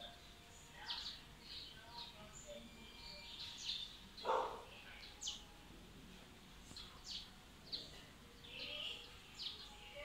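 Small birds chirping: many short, high chirps at irregular intervals, with one louder, lower sound about four seconds in.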